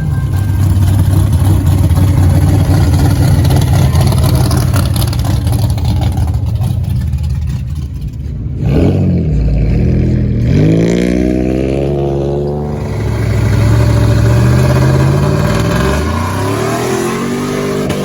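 Truck engine held at high revs, with the pitch dropping and climbing back up about halfway through and again near the end.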